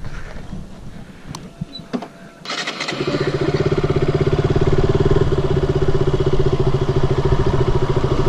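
KTM 200 Duke's single-cylinder engine being started about two and a half seconds in, after a few clicks, then catching and settling into a steady running beat.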